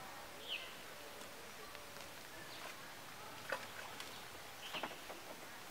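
Quiet outdoor background with two short, high, falling chirps from a bird, about half a second in and again near the end, and a single sharp click about three and a half seconds in.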